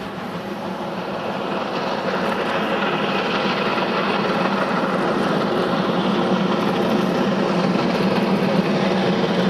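A train passing on the railway, its running noise growing steadily louder over the first few seconds and then holding, with a steady low hum beneath.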